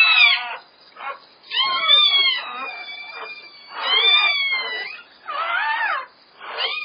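Newborn German Shepherd puppies crying: a series of high, wavering squeals, some lasting over a second.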